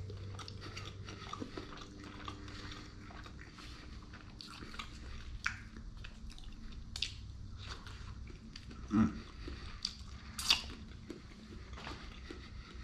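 Close-up mouth sounds of chewing sushi: wet, sticky clicks and occasional crunches at an uneven pace, with a few sharper snaps standing out.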